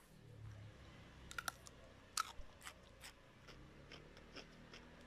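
A person chewing a bite of fresh raw cucumber: irregular crisp crunches, the loudest about two seconds in.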